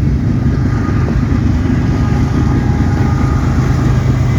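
Loud, steady rumble of a BNSF intermodal freight train passing close at speed, its mid-train GE diesel DPU locomotives working under power.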